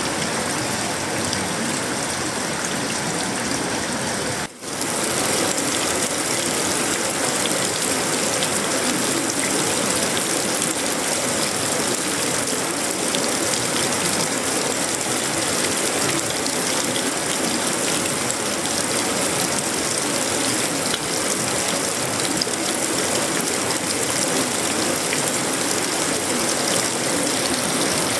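Heavy tropical rain, a steady dense patter on sheet-metal roofing, wood and leaves. The sound drops out for an instant about four and a half seconds in, then carries on slightly louder.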